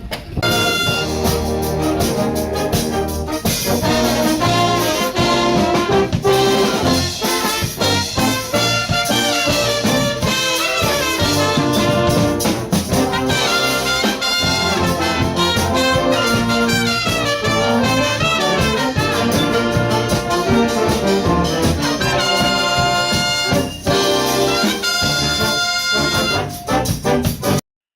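Brass instruments playing music together, loud and continuous, with several sustained chords; it cuts off abruptly near the end.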